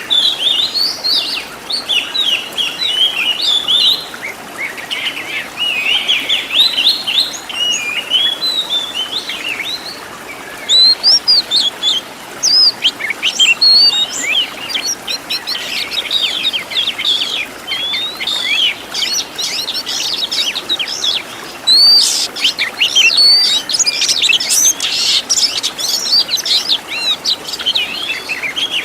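Oriental magpie-robin (kacer) singing a long, varied song of rapid chirps, whistles and sliding notes laced with phrases of other birds' calls, growing denser and louder in the last third.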